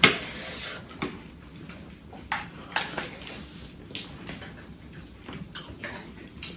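Eating sounds at a table: a loud clatter with a short hiss at the start, then scattered clicks and clinks of utensils against dishes.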